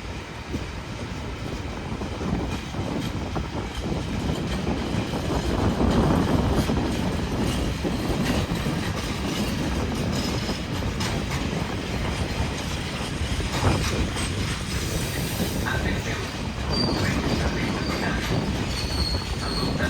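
Freight train wagons rolling through the station with a steady rumble and rhythmic clatter of wheels over rail joints. High-pitched wheel squeal sets in near the end.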